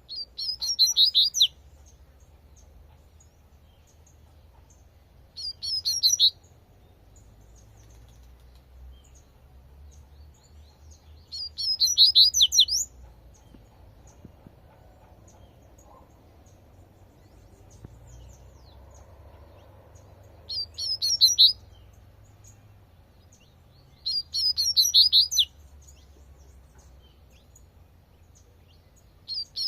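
Double-collared seedeater (coleirinho) singing its 'tui-tui' song: six short phrases of quick, high, bright notes, each about a second long, repeated every few seconds with quiet gaps between.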